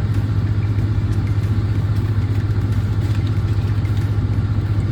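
Steady low drone of a semi-truck's diesel engine and road noise heard inside the cab while driving.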